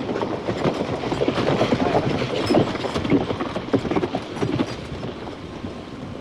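Horses' hooves clopping on a dirt road, a dense, uneven patter of hoof falls. It is loudest in the middle and then fades away.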